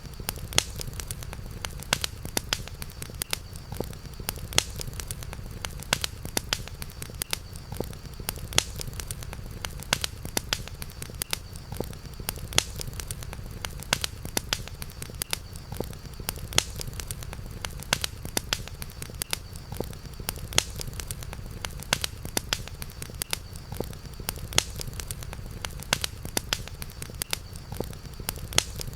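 Campfire crackling, with frequent irregular sharp pops and snaps over a steady low rumble. A faint steady high-pitched tone sits behind it.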